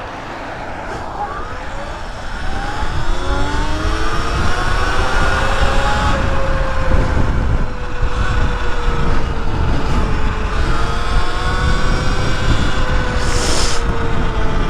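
Sur-Ron Light Bee X electric dirt bike's motor whine, rising in pitch as the bike accelerates over the first few seconds, then holding a steady pitch at cruising speed. Heavy wind rumble on the mic underneath.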